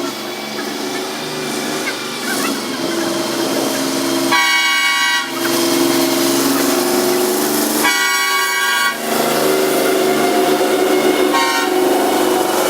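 Union Pacific diesel freight locomotives running with a steady drone whose pitch slowly wanders as they work. The air horn sounds twice, about a second each, roughly four and eight seconds in.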